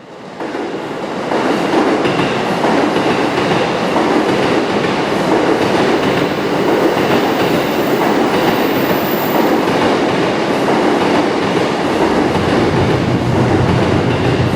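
JR East 211 series electric train moving along the platform, a steady running noise with wheels clacking over rail joints; a low hum comes in near the end.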